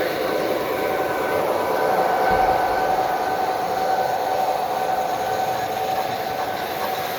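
Large-scale model train running on two-rail track: a steady whine over rolling noise, the whine growing stronger about two seconds in.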